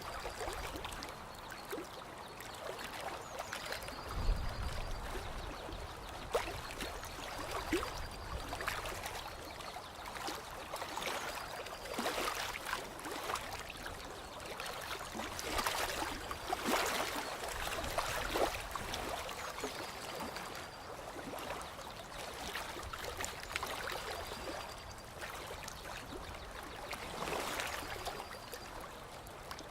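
Gentle running water, a steady trickling wash that swells and eases every few seconds.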